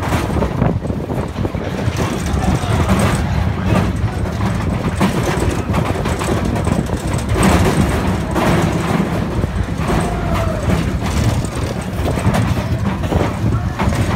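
Big Thunder Mountain Railroad mine-train roller coaster running along its track: a loud, steady rumble with rattling clatter from the cars.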